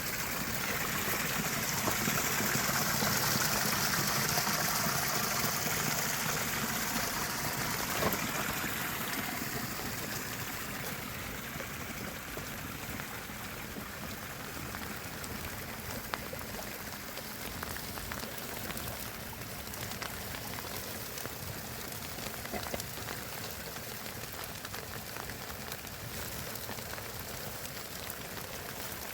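Steady rushing of water from a river swollen after heavy rain, louder for the first several seconds and then easing slightly, with a couple of faint knocks.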